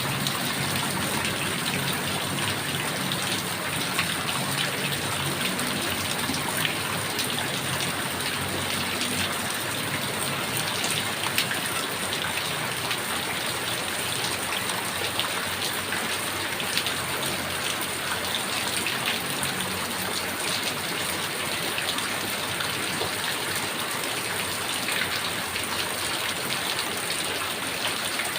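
Heavy rain falling steadily, a dense hiss with many individual drops ticking on surfaces.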